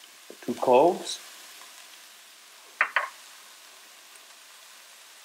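Diced onion and minced garlic sizzling gently in olive oil in a frying pan, a steady soft hiss. Two quick clicks about three seconds in.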